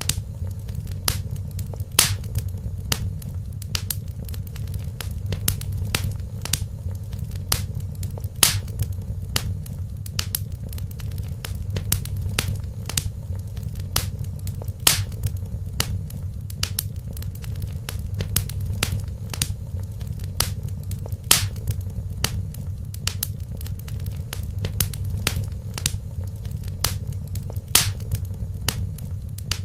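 Wood fire crackling, with frequent small snaps and a louder pop every several seconds over a steady low rumble of the flames.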